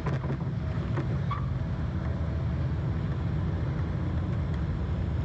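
Jet airliner cabin noise: a steady low rumble and hiss inside the cabin around touchdown in Dubai.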